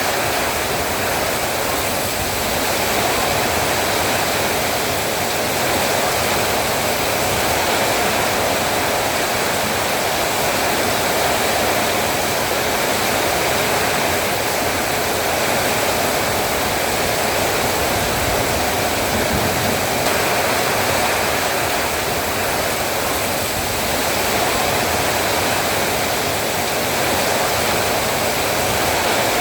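Heavy rain falling steadily, a dense even hiss that keeps the same level throughout.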